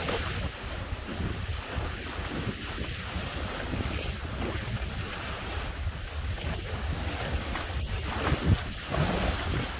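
Wind buffeting the microphone in uneven gusts over the wash of waves and water along the hulls of a sailing catamaran under way.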